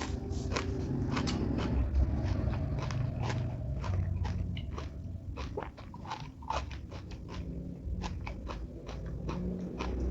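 A person chewing crunchy food close to the microphone, with many irregular crisp crunches and wet mouth sounds.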